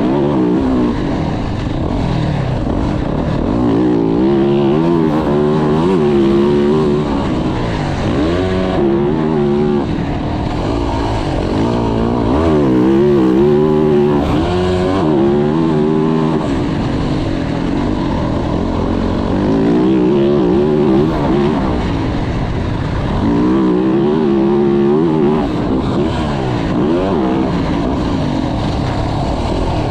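2024 Yamaha YZ450F four-stroke single-cylinder dirt bike engine being ridden hard, its pitch climbing and dropping over and over as the throttle is opened and shut.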